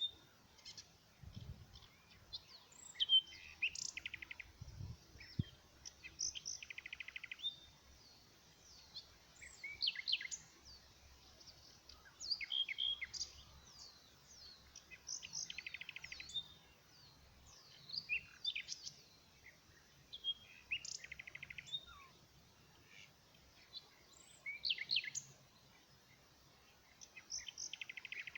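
Songbirds singing: short phrases of quick chirps, sweeps and brief buzzy trills recurring every few seconds. Faint low rumbles come twice in the first few seconds.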